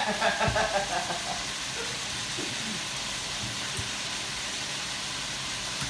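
Chicken pieces and onion frying in hot oil in a pot: a steady sizzle.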